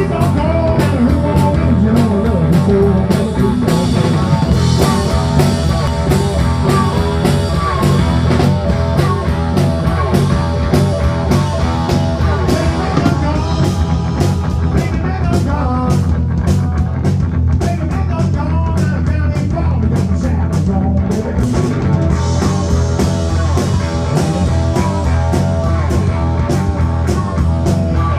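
Live rock band playing a song, with electric guitar and drum kit.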